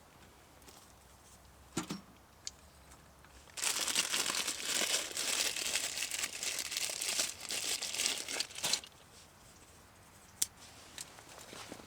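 Crinkly sheet material being crumpled and handled, a dense crackly rustle lasting about five seconds from about three and a half seconds in. A few sharp clicks come before and after it.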